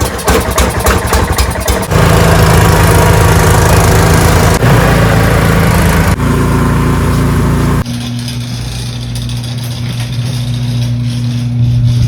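Ariens 624E snowblower's engine being started: rapid cranking for about two seconds, then it catches and runs loudly. From about eight seconds in it drops to a quieter, steadier running note.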